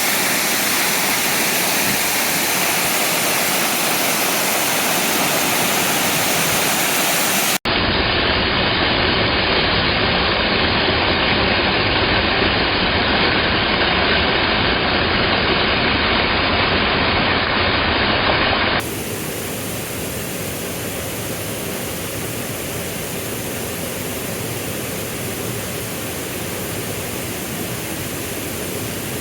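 Waterfall rushing: a loud, steady roar of falling water. It breaks off for an instant about a third of the way in and comes back duller, then drops to a quieter rush about two thirds of the way through.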